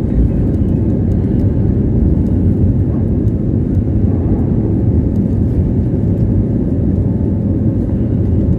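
Cabin noise inside an Airbus A320: a loud, steady low rumble of engines and airframe, with a faint steady hum and light scattered rattles.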